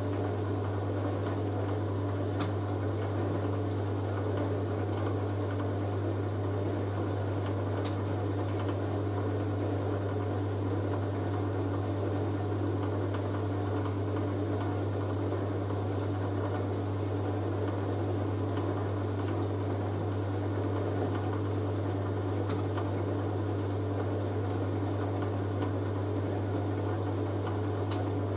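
Hoover A3060 Electronic 1100 front-loading washing machine in its spin, the motor and drum giving a steady drumming hum, with a few faint ticks along the way.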